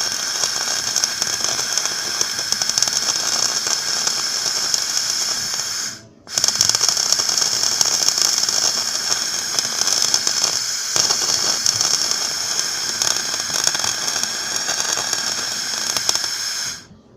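Electric arc welding on a scooter's steel frame: a dense, steady crackling and sizzling of the arc in two long runs, broken by a short stop about six seconds in, and cutting off sharply near the end.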